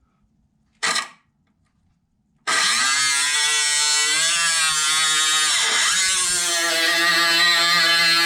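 A high-speed power cutting tool, a brief blip about a second in, then running steadily from about two and a half seconds as it cuts off excess sheet metal from a welded-in patch panel; its pitch sags once briefly in the middle as the tool bites, then recovers.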